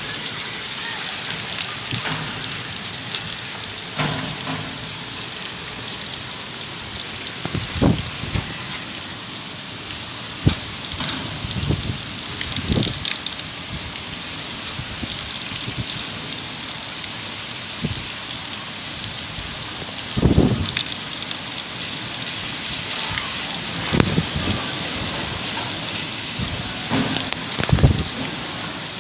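Heavy rain pouring down steadily, a dense hiss of drops on surfaces. Short low thumps break through every few seconds.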